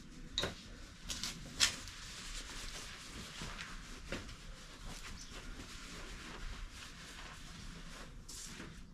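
Faint handling noises: a few light clicks and knocks, the sharpest about half a second and a second and a half in, with scattered rustling over a low hiss.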